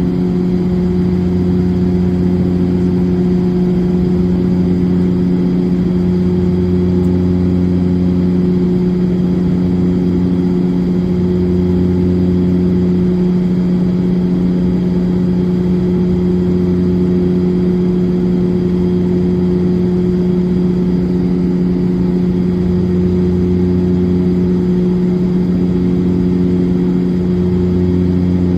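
Cabin drone of a De Havilland Dash 8-400's twin turboprops in flight: a steady propeller hum with a low throb that swells and fades every two to three seconds.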